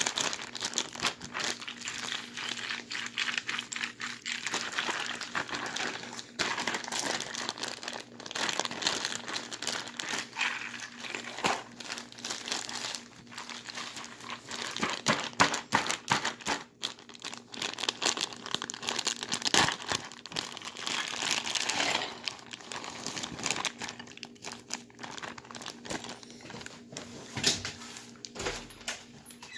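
Plastic bags crinkling and rustling as they are shaken and squeezed by hand, with ice and salt around a bagged drink to freeze it into slush. The crackling goes on without a break, made up of many quick sharp crinkles.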